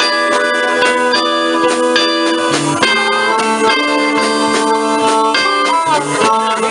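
Live blues instrumental passage: guitar playing under held notes that bend in pitch now and then, without singing.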